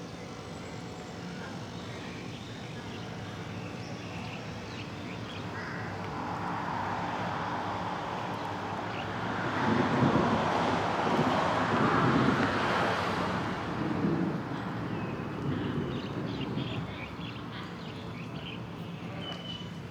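Diesel locomotive engine running with a steady low hum, while a broad rushing noise of a passing train builds, peaks about ten seconds in, and fades away. Birds chirp near the end.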